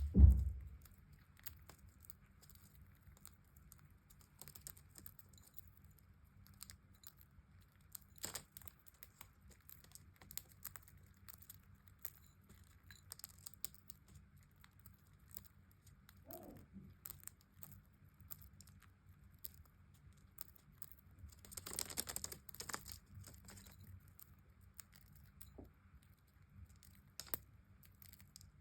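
Budgerigars eating: scattered light clicks and crackles of beaks picking at and cracking seed, with a denser burst of rustling and crackling a little after twenty seconds in, over a faint low hum.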